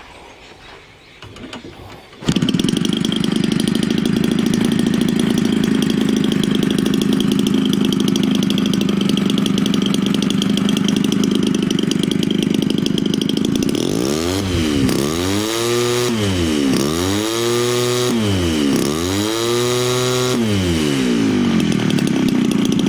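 Homelite 30cc two-stroke trimmer engine, converted to power a model airplane and fitted with a larger Walbro carburetor, comes in abruptly about two seconds in and runs steadily. Near the end it is revved up and back down three times before settling again.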